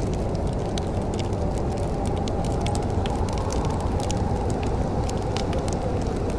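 Wood fire crackling in a fireplace: a steady low rumble with many quick, irregular sharp pops and snaps.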